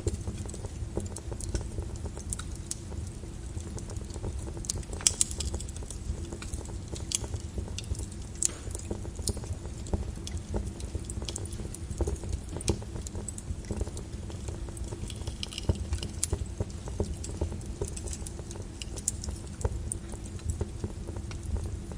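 Flowing lava crackling and clinking: scattered sharp clicks and pops over a steady low rumble.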